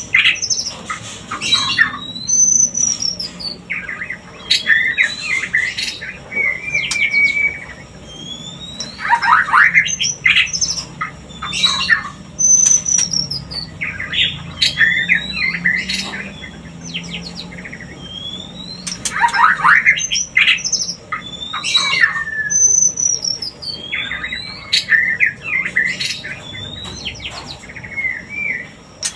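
White-rumped shama (murai batu) calling in a breeding-arousal recording: harsh rasping notes mixed with short whistled slurs. A loud burst of calls comes back about every ten seconds, three times, with softer calling between.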